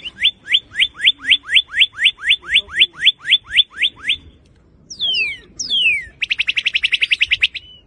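Northern cardinal singing: a run of about eighteen quick down-slurred whistles, some four a second, then two longer down-slurred whistles and, near the end, a very fast trill.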